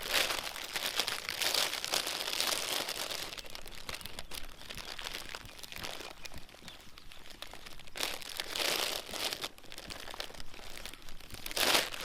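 Crinkling and rustling from handling food, the pita bread and salad being opened and got ready for filling, loudest at the start, again about eight seconds in, and in a short burst near the end.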